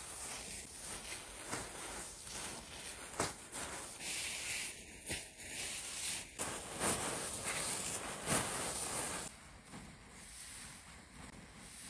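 Rustling and scuffing of handling in dry plants or leaves, with scattered sharp clicks; it quiets about nine seconds in.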